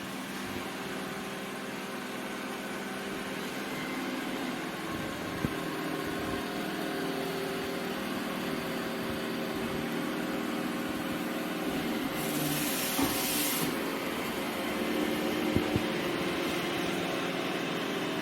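iRobot Roomba j7+ robot vacuum running, a steady motor hum and brush whir under a hiss of suction. A brief burst of sharper hiss comes about twelve seconds in, and a few light knocks are heard along the way.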